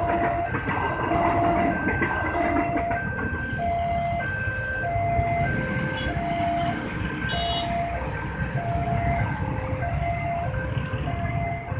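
Railway level-crossing warning alarm sounding a steady two-tone signal, the high and low notes alternating about every 0.6 s, over the low rumble of passing rail and road traffic. A brief high chirp cuts in about halfway through.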